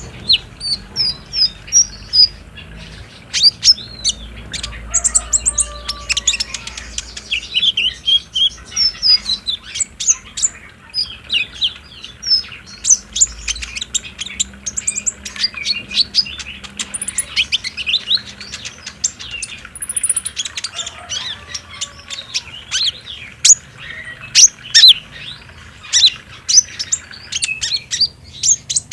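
Olive-backed sunbird (kolibri ninja) song in the rapid chattering 'trotol' style: runs of thin, high chirps and sharp ticking notes in quick succession, continuing throughout.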